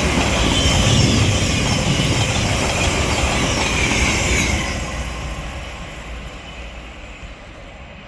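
Class 700 electric multiple unit running past on the rails, a loud rush of wheel and running noise with high whining tones, which fades away after about four and a half seconds as the train moves off.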